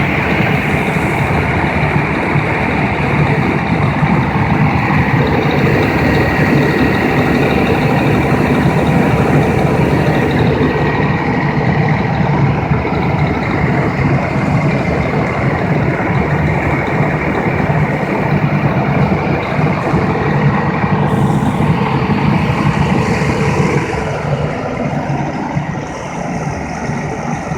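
Cummins QSX15 15-litre inline-six diesel engine running steadily, with a faint steady high whine over the engine note.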